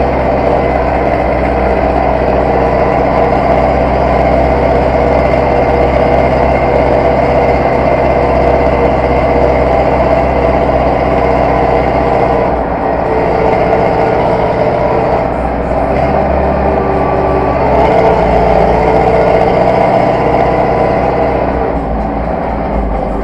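Zetor tractor's diesel engine running steadily. Its note shifts a few times around the middle, and it eases off a little near the end.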